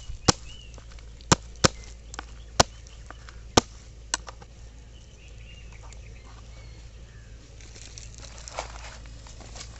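Chicken breast being pounded flat: about seven sharp, irregular knocks in the first four seconds, then only a faint outdoor background with birds chirping softly.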